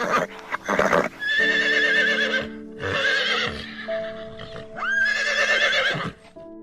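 Horse whinnying three times, each a long quavering high call, over steady background music, with two short noisy bursts in the first second.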